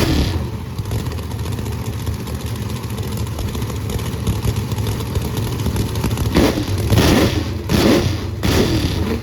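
Motor vehicle engine running steadily. Several short sounds of shifting pitch come over it starting about six seconds in.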